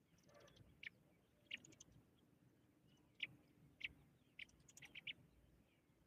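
Faint, short high-pitched chirps from small birds, about eight in all at irregular spacing, several coming in quick succession near the end.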